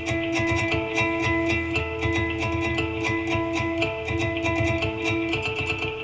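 Guitar intro with natural harmonics at the seventh fret of the fifth and fourth strings, two long ringing notes taking turns over quick, steady strummed guitar accompaniment.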